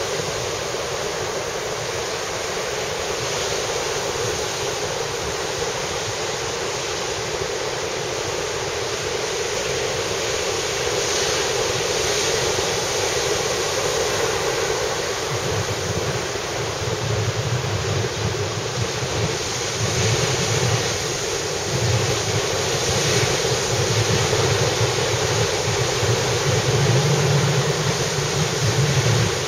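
High surf from a typhoon swell breaking and washing on a sandy beach, a steady roar, with strong wind buffeting the microphone in low rumbling gusts that grow stronger in the second half.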